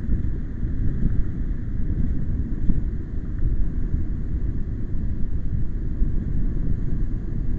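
Gusty wind buffeting the microphone: a loud, low rumble that rises and falls unevenly.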